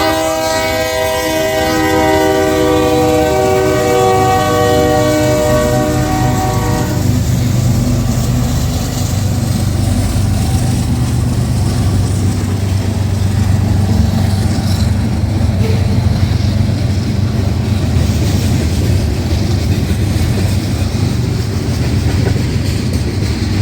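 Diesel freight locomotive's multi-chime air horn sounding one long blast for about seven seconds, then the steady low rumble of the locomotives and train rolling past.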